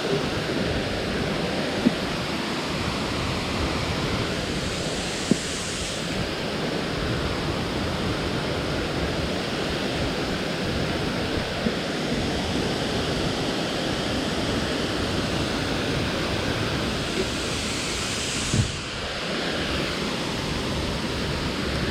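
Steady rush of a waterfall's falling water, with a few brief knocks.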